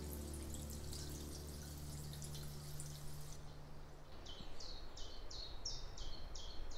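The tail of background music dies away. Then, about four seconds in, a bird repeats a short high note about three times a second, some eight times.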